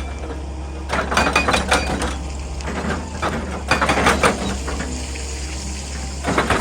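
Excavator working into a hillside: a steady low engine hum under three bouts of clattering, crunching rock and earth as the bucket digs and breaks the ground.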